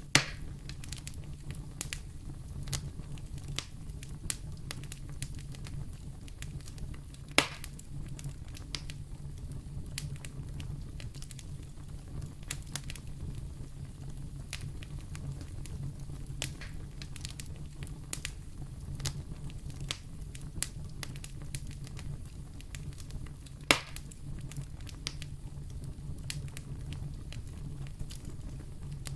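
Wood fire burning in a fireplace: a steady low rumble of flames under scattered sharp crackles, with three louder pops, one at the start, one about seven seconds in and one near the end.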